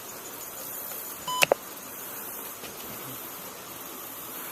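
A short electronic beep that steps up in pitch, followed by two sharp clicks in quick succession about a second and a half in, over a steady hiss.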